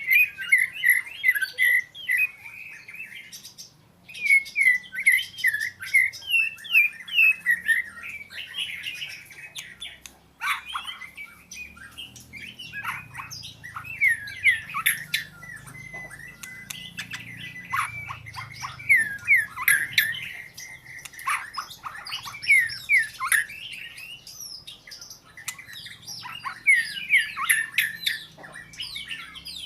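Oriental magpie-robin singing: rapid runs of short, curved whistled notes, broken by brief pauses.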